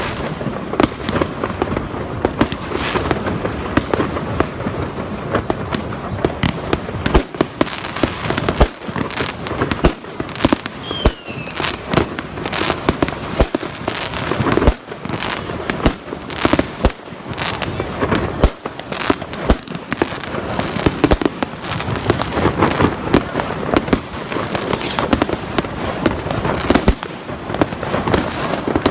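Fireworks going off in a dense, continuous barrage: sharp bangs come every fraction of a second over steady crackling.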